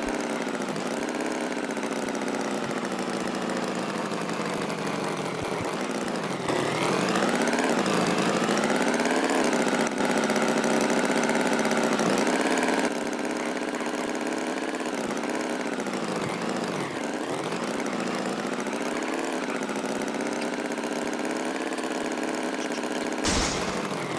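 Tractor engine running, its pitch slowly rising and falling, a little louder for several seconds in the middle, with a short loud burst near the end.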